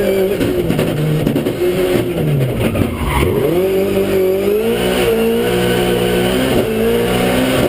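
Rally car engine revving hard at speed. Its pitch rises and falls with the throttle and gear changes, dips sharply about three seconds in, then climbs steadily again.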